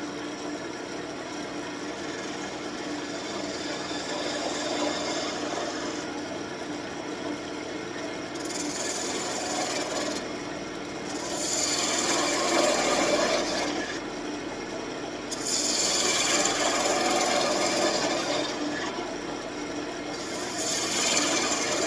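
Wood lathe running with a steady hum while a turning tool cuts into the spinning birch wand blank. The cutting comes in passes, with about four louder stretches of scraping in the second half.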